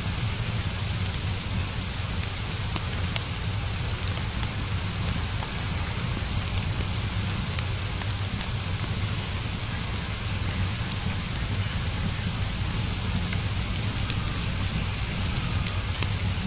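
Steady rain falling on surfaces, a constant hiss with scattered sharp drop ticks. Faint short high chirps recur every few seconds.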